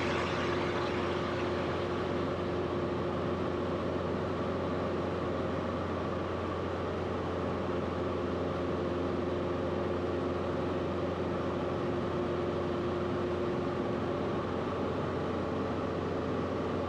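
Cessna 172RG's four-cylinder Lycoming engine and propeller droning steadily in flight, heard from inside the cockpit.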